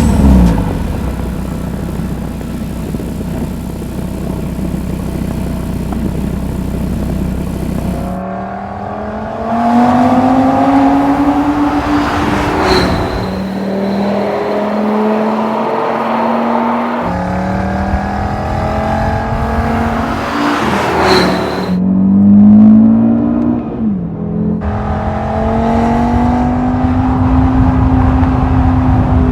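Audi RS Q3 Sportback's turbocharged 2.5-litre five-cylinder engine running steadily for about eight seconds, then accelerating hard, its revs climbing and falling back several times as it shifts up through the gears.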